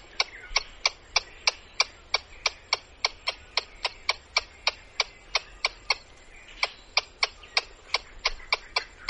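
An animal's call made of short, sharp clicks repeated evenly at about three a second, on and on without a break.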